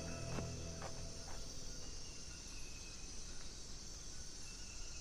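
Faint forest ambience with crickets chirping, as the tail of background music dies away at the start.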